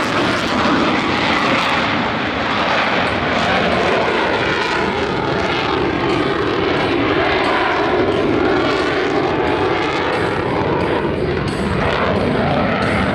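Blue Angels F/A-18 Super Hornet jets flying past, a loud, steady jet roar whose pitch shifts as the aircraft pass.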